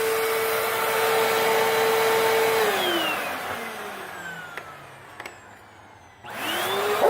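Hoover WindTunnel 3 bagless upright vacuum cleaner's motor running with a steady whine. It then winds down in falling pitch over about three seconds, with a few clicks, and near the end starts up again with a quickly rising whine.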